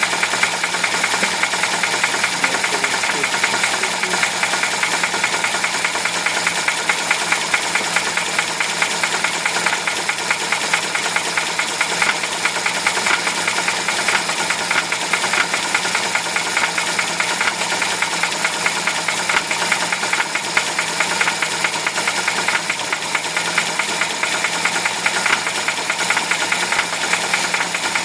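UZAM-412 inline four-cylinder petrol engine running steadily at an even speed, with a rapid, regular knock from inside the engine.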